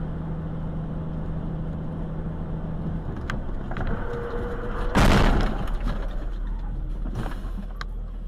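Car driving, heard from a dashcam: steady engine and road noise, with a few sharp clicks and one loud bang about five seconds in, likely a collision.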